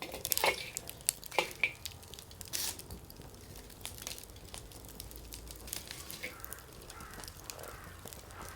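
Burning firewood crackling and popping, with a quick cluster of sharp pops in the first few seconds and scattered crackles after.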